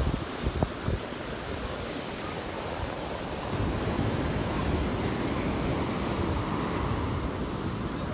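Rough surf breaking and washing up the beach, with wind buffeting the microphone. The surf gets louder about three and a half seconds in.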